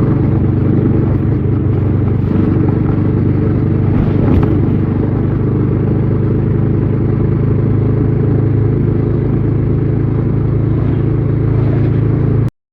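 Bajaj Dominar 400's single-cylinder engine and exhaust running steadily on the move, with a brief knock about four seconds in. The sound cuts off abruptly near the end.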